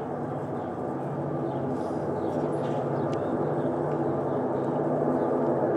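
Diesel locomotive engine of a Union Railroad coke train running steadily, a low hum made of many evenly spaced tones, with a few faint clicks.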